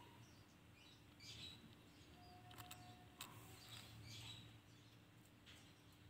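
Faint, brief chirps from common ioras (sirtu), several short calls roughly a second apart, with a couple of faint clicks just after the middle.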